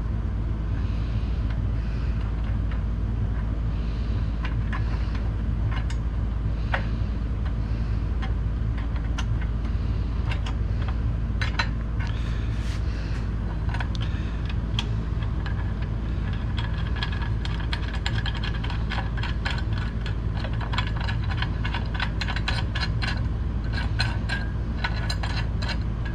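Small metal hardware, T-bolts and nuts, clicking and rattling against aluminium extrusion as they are fitted by hand, with the clicks coming thick and fast in the second half, over a steady low hum.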